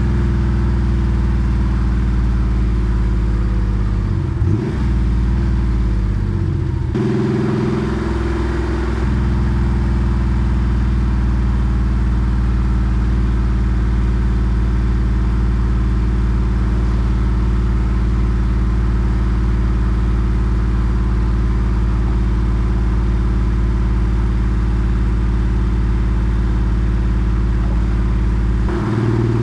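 Porsche 964 Carrera 2's air-cooled flat-six running steadily under way through its centre straight muffler, with shifts in pitch about four seconds in, again around seven seconds in, and near the end.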